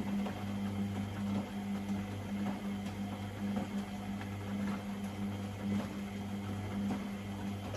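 Privileg Sensation 952 S top-loading washing machine running, with a steady low electric hum that swells and fades about once a second. Light clicking and water noise run under the hum.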